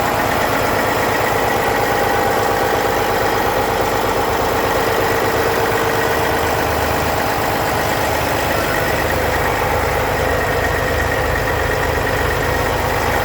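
Diesel engine of a 2005 Western Star 4900SA heavy truck idling steadily. It is a rebuilt engine with low hours that shows no blow-by.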